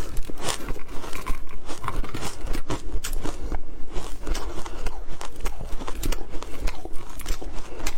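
Ice being bitten and chewed close to the microphone: a continuous run of sharp, irregular crunches, several a second.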